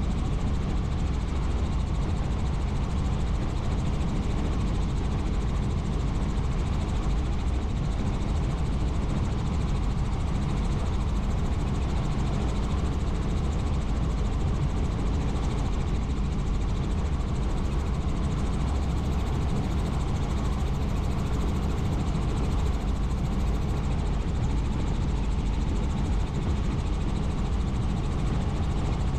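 Helicopter in flight: steady, unbroken rotor and engine noise, heaviest in the low range.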